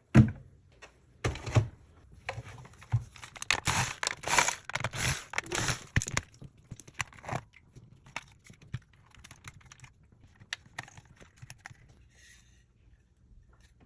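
Irregular crinkling, scraping and clicking of plastic being handled, with the busiest, loudest stretch in the first six seconds and scattered clicks after.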